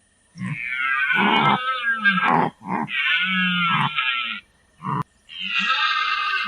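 Animal calls: four loud, pitched cries of up to about two seconds each, separated by short gaps and starting and stopping abruptly.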